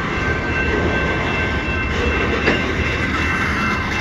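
CN freight train cars rolling steadily past, a continuous rail rumble with a thin, steady high-pitched wheel whine and a single sharp knock about two and a half seconds in.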